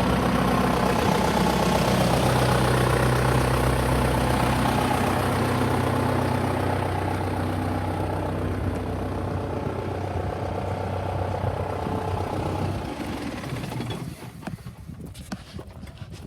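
John Deere 6420 tractor's diesel engine running steadily, its sound ending about 13 seconds in, after which only a few faint clicks remain.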